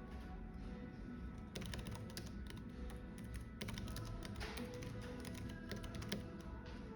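Computer keyboard typing in quick bursts of keystrokes, starting about a second and a half in and stopping near the end, over soft background music and a low café hum.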